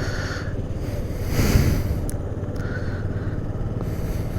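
Honda Activa 5G scooter's small single-cylinder engine running at low speed, with a steady low rumble and road and wind noise on the microphone; it swells briefly about a second and a half in.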